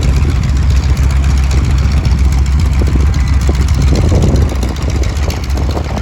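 B-17 Flying Fortress's radial piston engines running with a steady, heavy low drone that eases slightly about four and a half seconds in.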